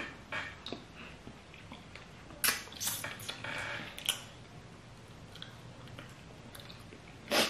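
Wet chewing and lip-smacking of people eating soft fufu with peanut soup by hand: a handful of short, separate smacks, clustered about two and a half to three seconds in and again near four seconds, with quieter chewing between.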